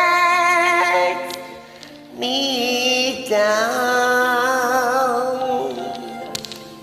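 A woman singing the long-held closing notes of the song over a karaoke backing track, with clear vibrato, in two sustained phrases. The voice fades out about five and a half seconds in, leaving the soft instrumental ending.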